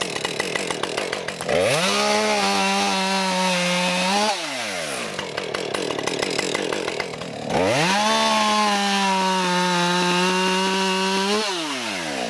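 Husqvarna 550XP 50cc two-stroke chainsaw, fitted with a 20-inch bar, cutting firewood. It idles, revs up to full throttle and holds a steady high pitch for about three seconds through a cut, then drops back to idle. This happens twice.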